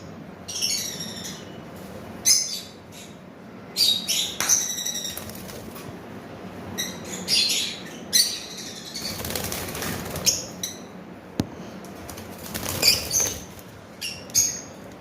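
Small pet parrots of the opaline colour mutation, parblue and green, calling in short, high chirps that repeat every second or two.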